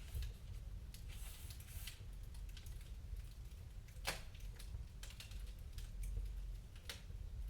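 Wood fire crackling in a fireplace: faint, irregular small snaps and pops, with one sharper pop about four seconds in, over a low steady rumble.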